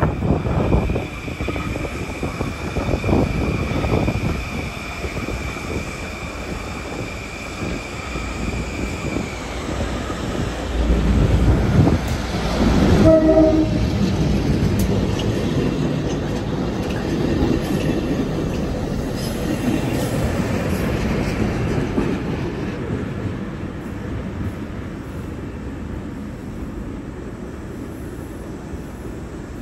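LIRR laser train, pulled and pushed by diesel switcher locomotives, rumbling past on the tracks, with a steady high whine over the first nine seconds or so. The rumble is loudest about 11 to 14 seconds in, where a brief horn note sounds, then slowly fades as the train moves on.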